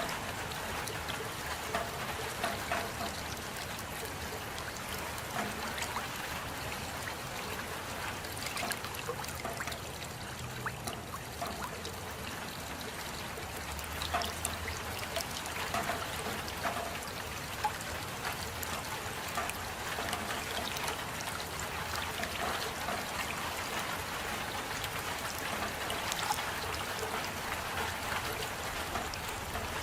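Steady rain: an even hiss with many separate drop strikes scattered through it.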